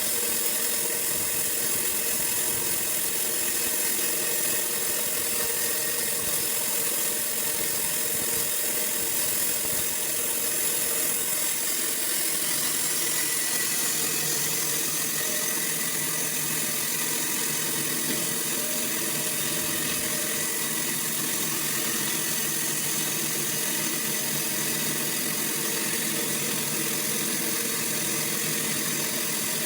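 Sawmill running steadily: a constant machine sound with several held tones and a high hiss that stays at one level throughout.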